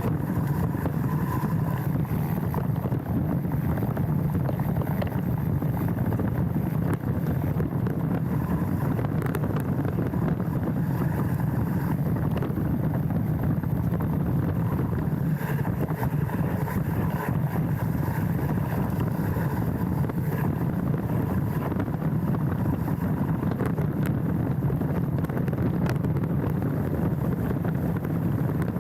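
Steady wind and riding rumble on a mountain bike's handlebar-mounted action camera during a trail descent, with scattered small clicks and rattles from the bike.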